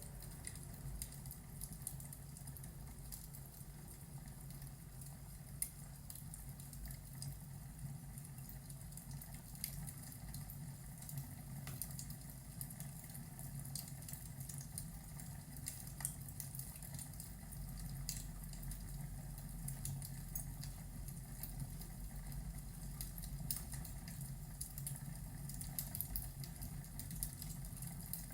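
Fireplace ambience: a wood fire crackling with irregular sharp pops over a low steady rumble.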